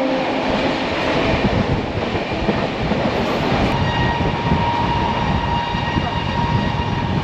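Kulik Express passenger train running on the track: a steady rumble and rattle of the coaches over the rails, with a faint high whine through the middle.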